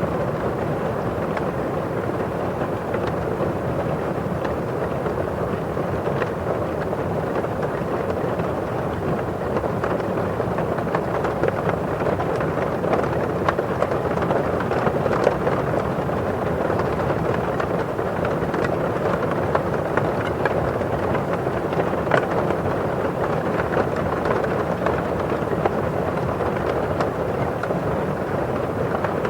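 Steady rain: a constant wash of rainfall with many small drops ticking on window glass.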